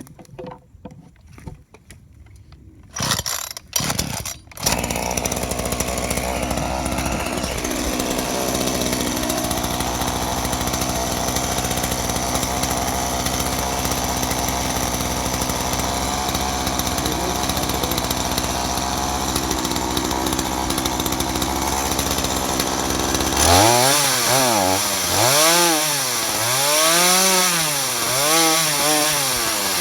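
Ryobi 38cc two-stroke chainsaw pull-started: a couple of short bursts from the pulls about three seconds in, then the engine catches and idles steadily. Near the end the throttle is blipped several times, the engine revving up and dropping back each time.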